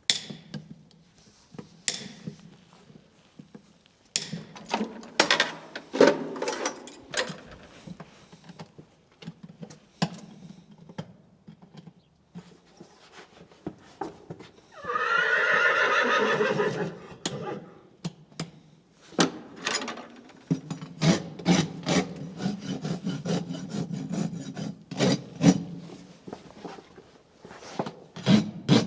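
A farrier's rasp filing a horse's hoof in repeated scraping strokes, which come faster near the end. About halfway through, a horse whinnies once for about two seconds, louder than the rasping.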